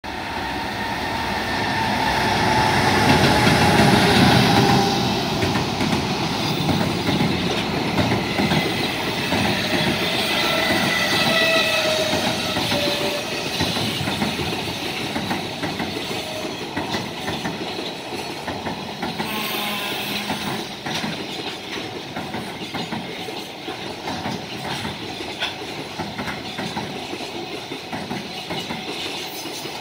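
A container freight train hauled by a JR Freight EH200 electric locomotive passes close at speed. It is loudest as the locomotive goes by about four seconds in, then becomes a steady rumble and wheel clatter from the container wagons that slowly fades.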